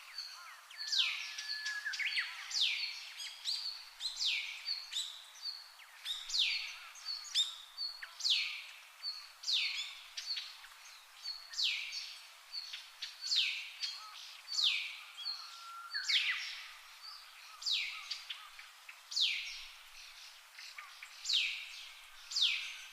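A bird calling over and over, about once a second: each call is a short high note followed by a sharp, falling note.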